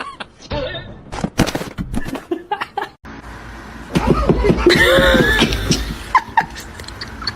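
A person laughing, loudest about four to six seconds in, after a run of short knocks and clatter.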